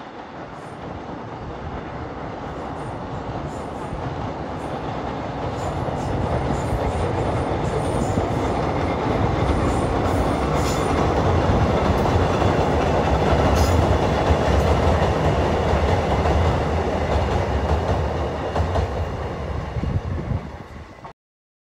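Kotoden electric train approaching and running past, growing steadily louder to a peak about 13 seconds in and then fading. The sound cuts off abruptly shortly before the end.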